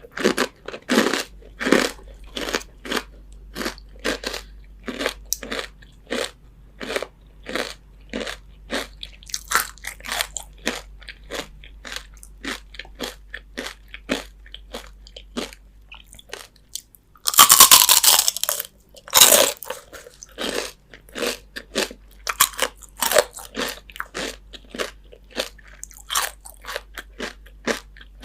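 Crispy fried chicken skin being bitten and chewed close to the microphone: a quick run of sharp crunches, about two a second, with a longer, louder crackling bite about two-thirds of the way through.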